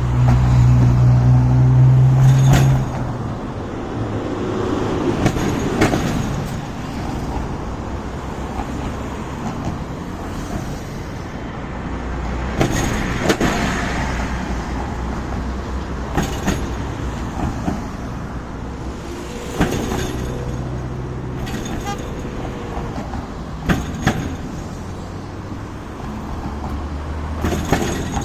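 Road traffic crossing a bridge, with sharp knocks about every few seconds as vehicles pass over a loose part of the bridge deck. A heavy vehicle's engine hums loudly for the first few seconds.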